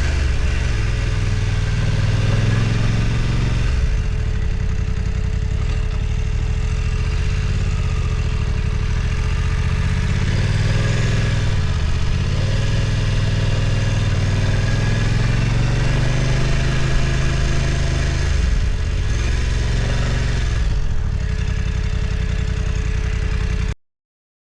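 BMW F900 XR's parallel-twin engine running at low revs under way, its pitch dipping and rising several times with the throttle. The sound cuts off suddenly near the end.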